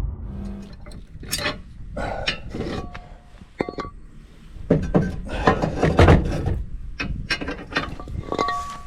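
A string of irregular clicks, knocks and light clinks of hard objects being handled, with a couple of short ringing tones.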